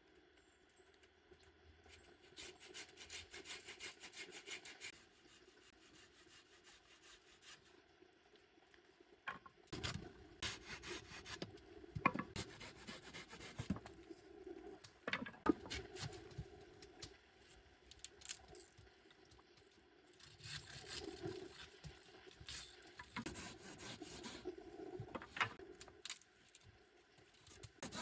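Wood being cut by hand with a saw, in runs of rasping strokes, with sharper knocks and scrapes in the middle.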